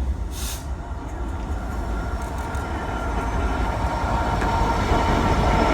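Class 66 diesel-electric locomotive, with its two-stroke V12, hauling a long container train through the station. Its engine drone and the rail noise grow steadily louder as it approaches. A brief hiss comes about half a second in.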